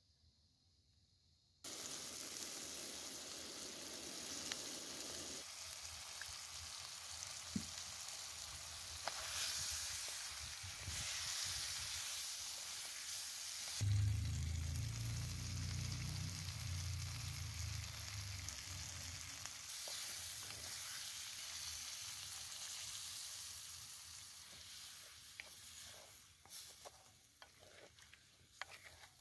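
Chicken pieces and potatoes in spices sizzling as they fry in a black iron kadai, stirred now and then with a spatula. The sizzle starts suddenly about two seconds in, with a low rumble for a few seconds in the middle, and it thins out near the end with a few scraping clicks.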